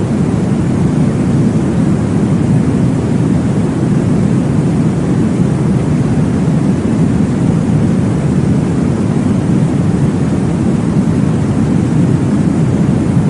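Steady, deep rushing noise, most of its weight low in pitch, with no clear beat: a womb-style white-noise track for baby sleep.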